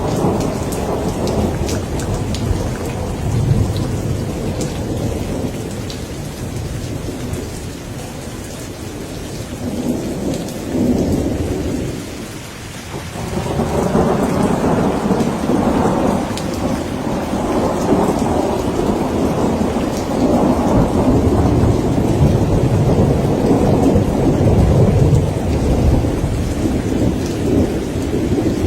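Rain falling steadily under rolling thunder. Long, low rumbles ease off briefly about twelve seconds in, then swell again and keep rolling.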